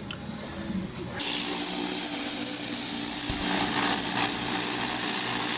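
A pressurised cleaning spray hissing loudly and steadily, starting suddenly about a second in.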